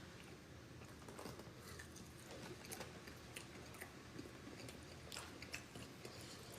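Faint chewing of boneless chicken wings, with soft scattered mouth clicks.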